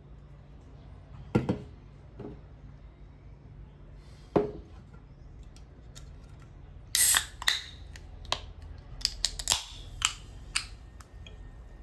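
Close handling sounds: a few soft knocks, then a short, sharp crackling burst about seven seconds in, followed by a quick run of crisp clicks.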